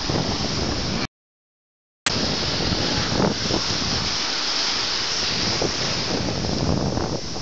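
Wind buffeting the microphone over breaking surf at a beach. The sound cuts out completely for about a second near the start, then comes back.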